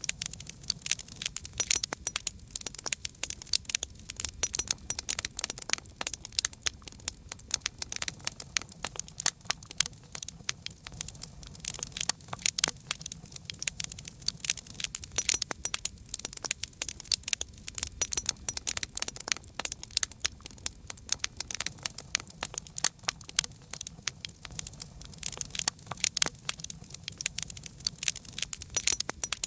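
Campfire burning with continuous irregular crackling and popping of the wood, over a low steady rumble of the flames.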